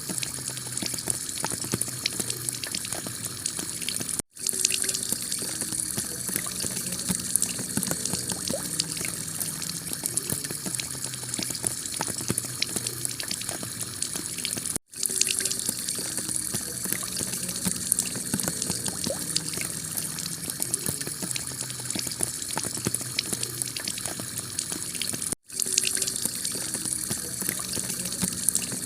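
Heavy rain falling on a clay-tile roof: a dense, steady hiss full of fine drop taps. It cuts out for an instant three times, about ten seconds apart.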